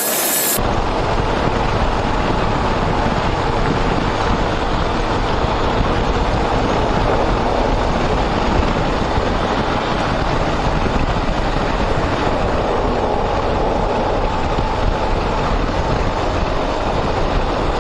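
Steady roar of wind and road noise on a moving motorcycle at constant cruising speed, with the engine's note running faintly underneath.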